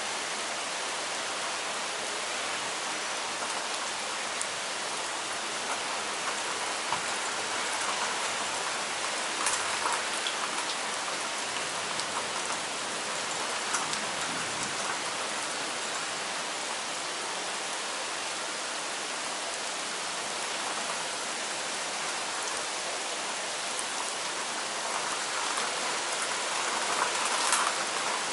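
Heavy rain pouring down steadily as a dense, even hiss. A few louder drop splashes stand out, several of them near the end.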